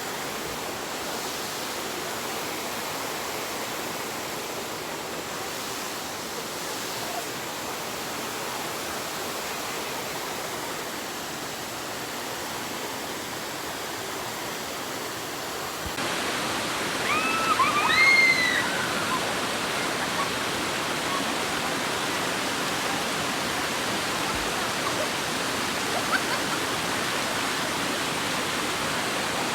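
Waterfall rushing steadily, suddenly a little louder about halfway through. Just after that come a few short high calls that rise and fall.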